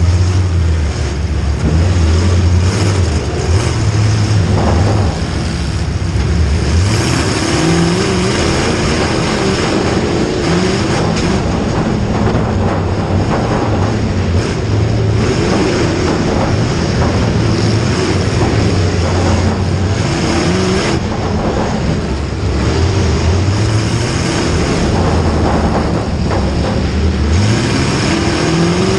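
Vehicle engines running hard, their pitch rising again and again as they rev and accelerate over a steady low rumble.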